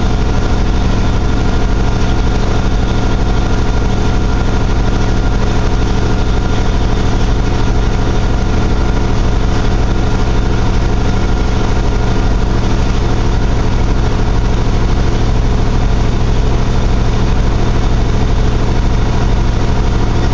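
1982 GMC S-15's carbureted 2.8 V6 running steadily on choke fast idle during a cold-start warm-up. It idles loud, which the owner puts down to a cracked exhaust manifold.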